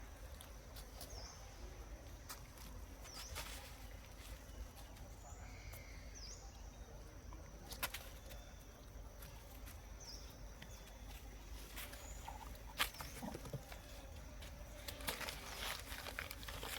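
Faint outdoor background with scattered light clicks and taps and a few short high chirps over a steady thin high tone.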